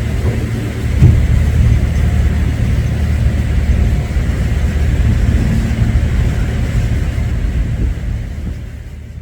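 Steady low rumble of a large car ferry under way, its engines droning with an even rushing noise on top, fading over the last second or so.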